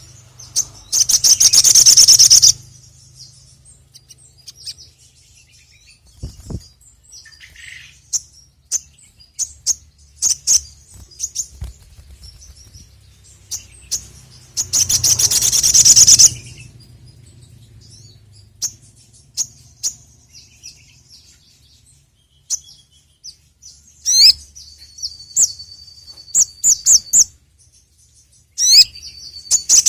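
Ruby-cheeked sunbird (sogok ontong, 'sogon') singing. Loud, high, rapid trilled bursts of a second or two come near the start, about halfway through and at the end. Between them are short sharp chirps and a held high note.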